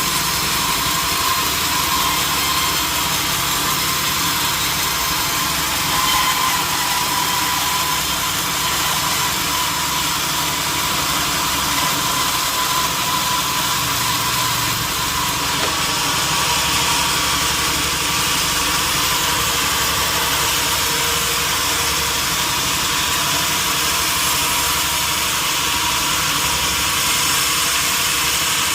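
Sawmill machinery running steadily: a loud, even machine noise with a faint thin whine.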